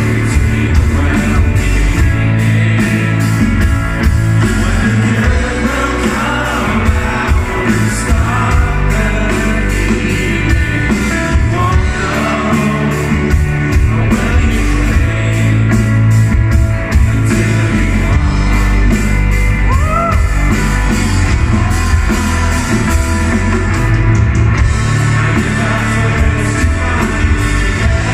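Rock band playing live, loud and bass-heavy: drums, bass and guitars, with sung vocals over them.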